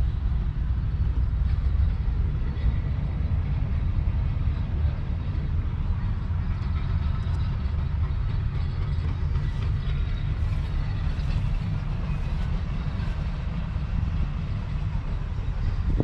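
1942 AEC Matador's 7.7-litre six-cylinder diesel engine running steadily, with a deep, even low rumble.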